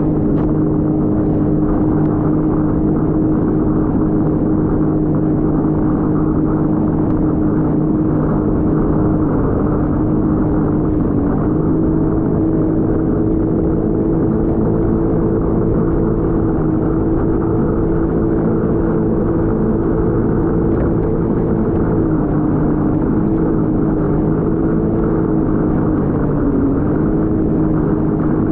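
Jet ski engine running steadily at speed, its pitch dipping briefly a few times as the throttle eases and picks up again.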